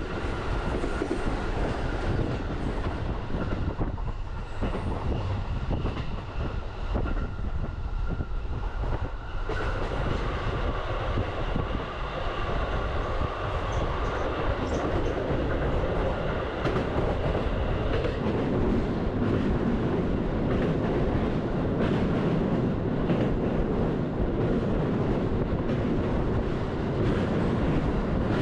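Utsunomiya Line commuter train running at speed, heard from inside the carriage: a steady rumble of wheels on rail with some clickety-clack. The rumble grows louder and heavier in the second half as the train runs onto a steel truss bridge.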